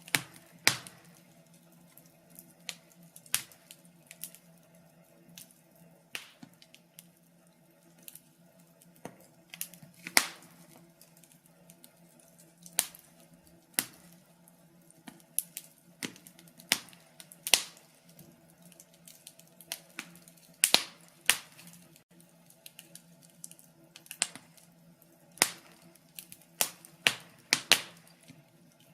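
Wood fire crackling in a fireplace: irregular sharp pops and ticks at uneven intervals, a few much louder than the rest, over a faint steady low hum.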